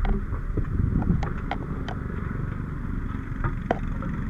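Fire truck running, heard from inside the cab: a steady engine and road rumble with a few short clicks and rattles.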